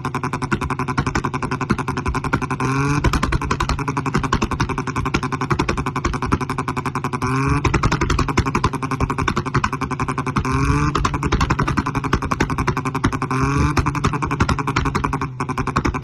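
Maruti 800's three-cylinder engine running through a modified exhaust with a fast, even pulsing, briefly blipped up in pitch four times, every three to four seconds.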